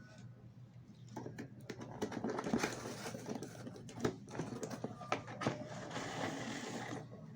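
A toy car's packaging being opened by hand: irregular rustling, taps and clicks of cardboard and plastic.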